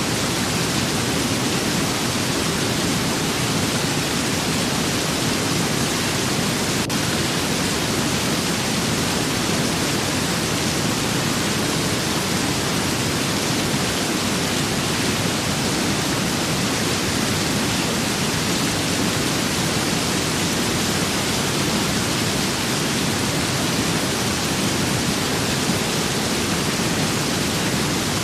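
Steady rain with wind: an even, unbroken rushing hiss that holds at a constant level throughout.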